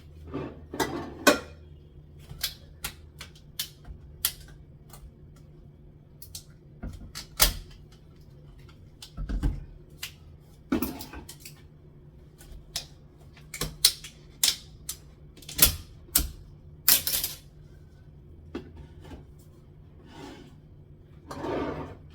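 Irregular clicks and knocks of cans, jars and packages being handled and set down on a kitchen cupboard shelf.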